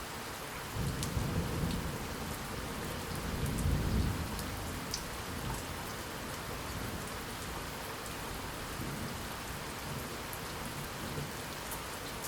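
Steady rain falling, with scattered drop ticks, and low rolling thunder: a rumble about a second in, a louder one that swells to a peak around four seconds and dies away, and a faint one later.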